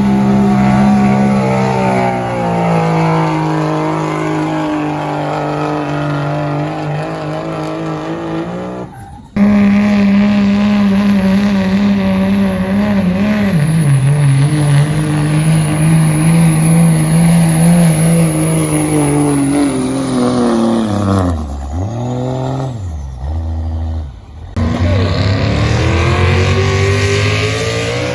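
Diesel pulling truck's engine running hard under load, its pitch sagging slowly as it drags the sled, with a thin high whistle over it for a stretch. The sound breaks off sharply about nine seconds in and resumes at once at a higher pitch. Near the end the engine drops low, breaks off briefly, then comes back and climbs again.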